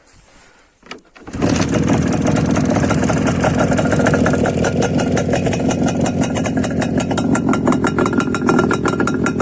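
IZh Jupiter 5 motorcycle's two-cylinder two-stroke engine starting about a second in, then running loud with a fast, rattling exhaust beat. The baffles have been taken out of both mufflers.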